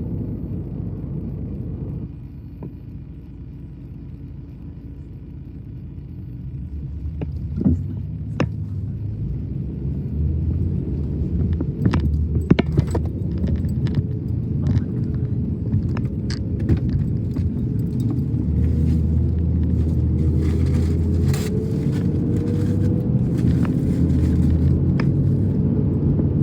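Motor vehicle engine running with a steady low rumble, quieter for a few seconds near the start and then louder, with scattered clicks and light knocks.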